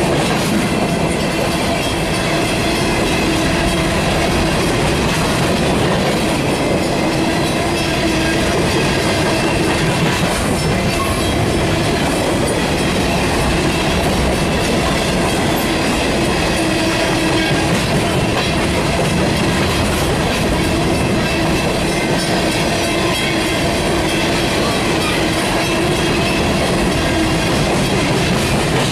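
Freight cars of a sand train rolling past close by, their steel wheels on the rails making a loud, steady noise.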